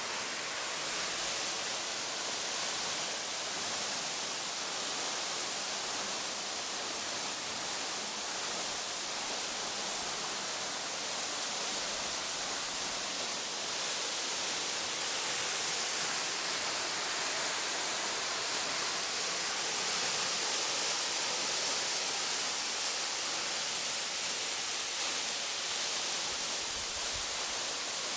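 Waterfall: falling water making a steady, even hiss.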